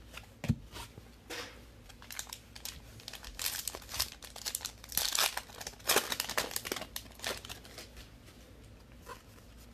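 Plastic trading-card pack wrapper being torn open and crinkled, a quick run of crackling crinkles that is busiest in the middle.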